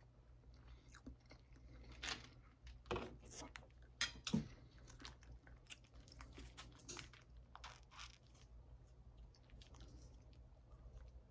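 Close-up chewing and crunching of breakfast food, with scattered clicks and taps that are loudest between about two and four and a half seconds in. In the second half, fainter small clicks and crinkles as a small condiment packet is torn open.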